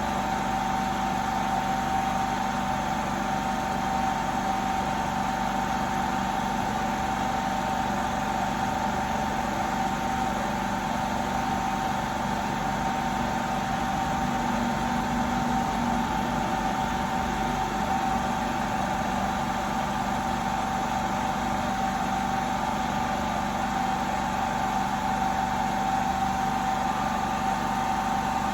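Steady machine hum with a constant high tone, unchanging throughout.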